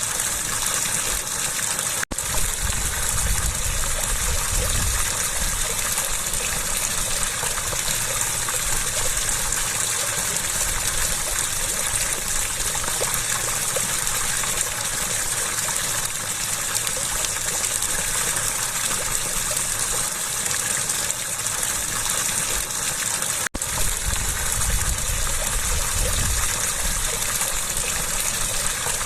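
Water gushing steadily in a dense, unbroken rush. The sound cuts out abruptly for an instant twice, about two seconds in and again about six seconds before the end.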